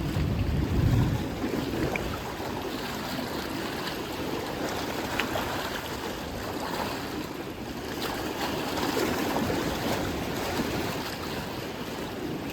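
Ocean surf washing onto the beach, with wind buffeting the microphone, strongest in the first second or so.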